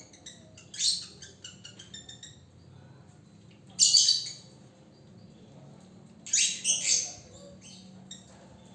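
Male lovebird calling in short, harsh, high-pitched chirps and squawks that come in separate bursts: a strong call about a second in followed by a run of quick chirps, a loud burst about four seconds in, and a cluster of calls near the end.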